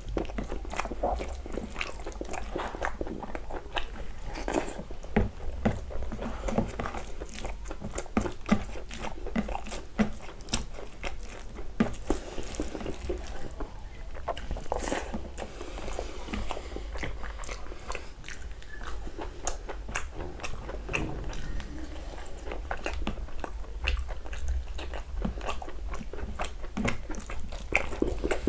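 Close-miked eating: a man chewing mouthfuls of rice and chicken curry, with many small wet smacks and mouth clicks, and his fingers mixing the rice on a paper plate between bites.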